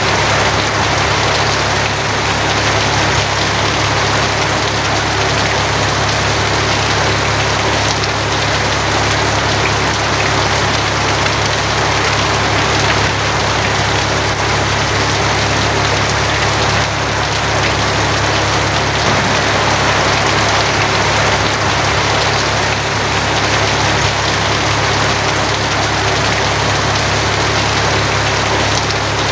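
Steady heavy rain falling on a tin roof, with a constant low rumble underneath.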